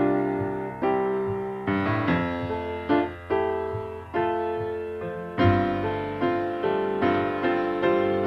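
Solo piano playing a slow run of chords, one struck about every second and left to fade: an instrumental introduction before the vocal comes in.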